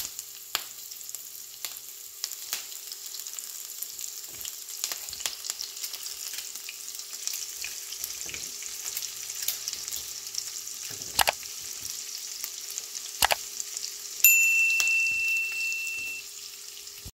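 Mustard seeds, fennel seeds, chopped green chilli and shallots sizzling in hot sesame oil in a frying pan, a steady hiss with scattered pops and crackles from the seeds as they temper. Near the end a loud, high, steady electronic beep sounds for about two seconds.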